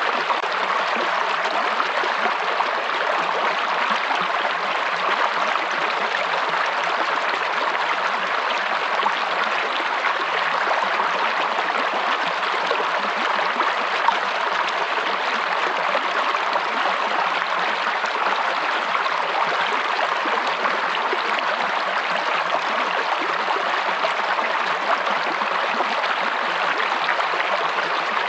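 Running water of a stream: a steady, even rush with fine splashes throughout.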